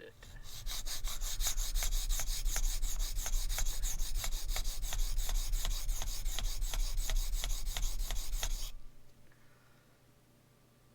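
A steel knife blade is being stroked rapidly back and forth on a sharpening stone, most likely the Sharpal 162N diamond plate, at about four even scraping strokes a second while the edge is raised to a burr. The strokes stop suddenly about two seconds before the end.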